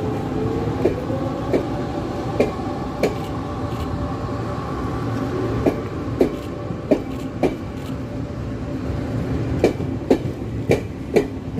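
Taiwan Railway Tze-Chiang express train moving along the track, a steady rumble and hum broken by sharp clacks of the wheels over rail joints every half second to a second.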